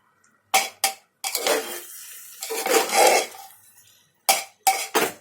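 A spoon stirring rice and masala in a pressure cooker while it is roasted. Two sharp knocks against the pot come first, then two longer scraping stirs, then a quick run of knocks near the end, with a faint metallic ring under them.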